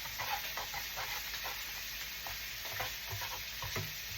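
Sugar caramel sizzling in a frying pan while being stirred, with irregular scraping taps of the stirring utensil against the pan over a steady hiss. The caramel is being kept moving so it darkens without burning.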